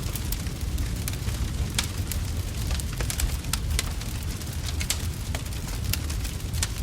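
Wood fire in a fireplace: logs crackling and popping with frequent sharp, irregular snaps over a steady low rumble of the flames.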